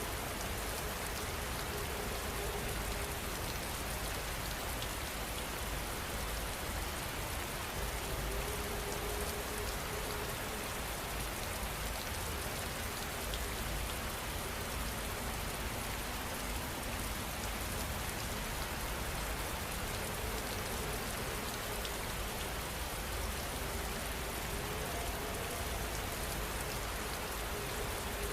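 Heavy rain falling steadily, an even hiss without let-up.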